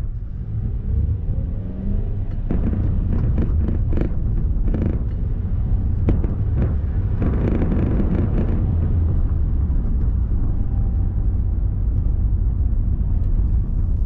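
Car on the move, a steady low engine and road rumble.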